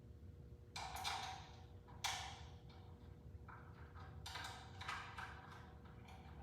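A handful of sharp knocks and clicks, spaced irregularly, each with a short ringing tail: metal saw parts and hand tools being handled during a miter-saw blade change.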